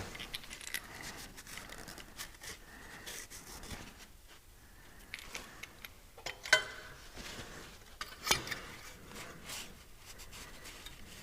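Small metal clicks and scrapes of hand work on tractor parts, tools and fittings being handled, with a couple of sharper clicks past the middle.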